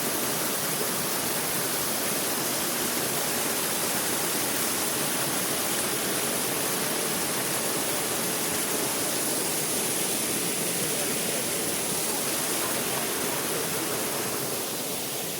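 Rushing water from a stream or small waterfall swollen by the rain, a steady loud rush that eases a little near the end.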